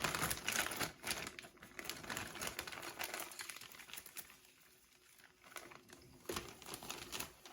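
Crinkling and rustling of the plastic bags that hold a model kit's parts trees as they are handled, with small clicks of plastic on plastic; it dies down after about four seconds, leaving a few isolated clicks.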